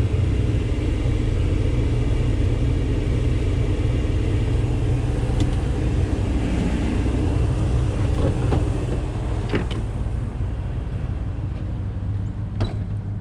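Pickup truck engine running steadily at idle, a low even rumble, with a few sharp knocks, the clearest near the end.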